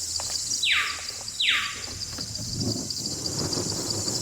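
Steady, pulsing insect chorus, with two quick calls about a second in, each sweeping sharply downward in pitch.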